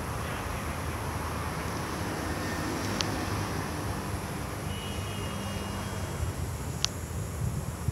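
Taipei Metro C301-type train with retrofitted propulsion running along the track: a steady rumble with two sharp clicks, about 3 and 7 seconds in, and a faint high whine near the middle.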